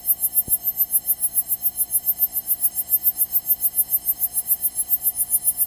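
Electronic buzzing in the cockpit intercom audio, pulsing evenly about eight times a second.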